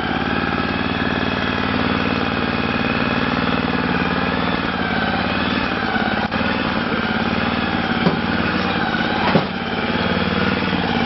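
Ariens snowblower's single-cylinder engine running steadily, with a couple of brief knocks about eight and nine seconds in.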